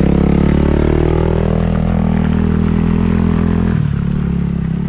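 Dirt bike engine revving under load on a hill climb: the revs swing up and down for the first couple of seconds, hold steady, then drop off about four seconds in.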